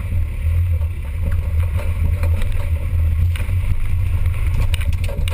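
Off-road 4x4's engine running steadily as a low rumble, with scattered knocks and rattles.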